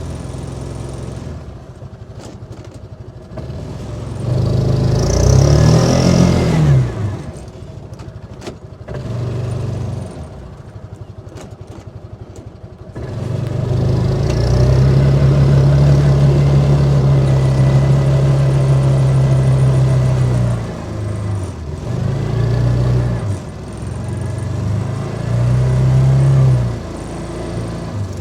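Side-by-side UTV engine revving in repeated surges, the longest held for about seven seconds, dropping back toward idle between them, as the wheels spin for traction in deep snow.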